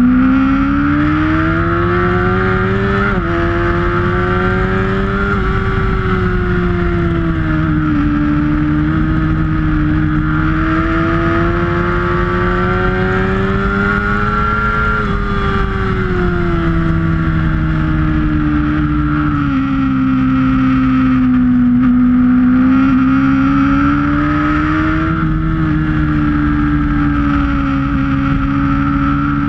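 Sportbike engine heard from on board at track pace, its revs rising and falling in long smooth swells through corners and straights, easing off briefly about halfway. A steady rush of wind and road noise runs underneath.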